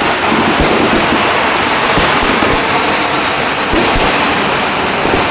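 Fireworks barrage: many overlapping bangs and crackles blending into a continuous loud din, with a few sharper reports standing out.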